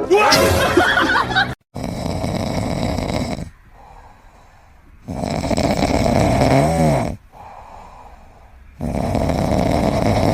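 A pet snoring loudly in slow cycles: a rasping breath about two seconds long, then a quieter breath, about every three and a half seconds. A brief, different noisy sound at the start cuts off abruptly about a second and a half in.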